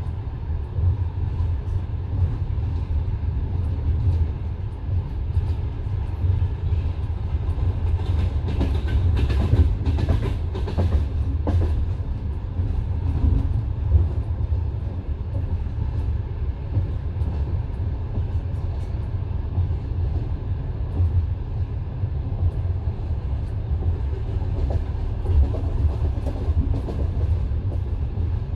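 Passenger train carriage rolling along the track, heard from inside: a steady low rumble with wheels clicking over rail joints, and a burst of sharper, brighter clatter about eight to twelve seconds in.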